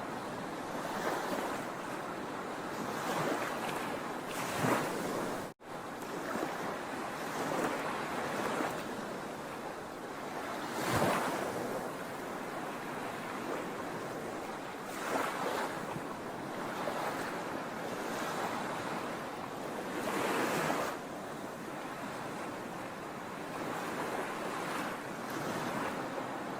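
Sea waves washing onto a shore: a steady rush of surf, with a wave surging up and breaking every four to six seconds. There is a split-second gap in the sound about five and a half seconds in.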